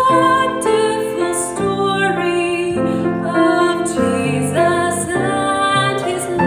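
Music: a woman singing with piano accompaniment, the notes changing about every half second.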